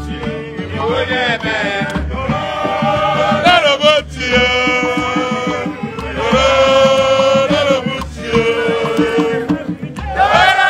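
Live ogene band music: male voices sing long, held, chant-like phrases over a steady run of percussion.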